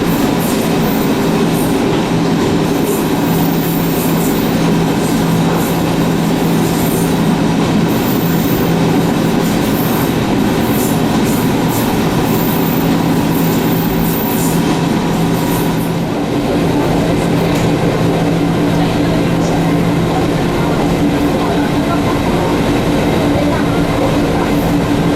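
Electric railcar running along the line: a steady rumble of wheels on track with a continuous motor hum, whose pitch changes about two-thirds of the way through as the speed changes, and faint high wheel squeal in the first half.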